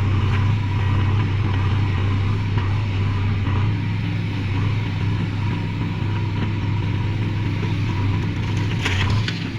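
Heavy diesel engine running at a steady speed with a constant low hum, with a short clatter about nine seconds in.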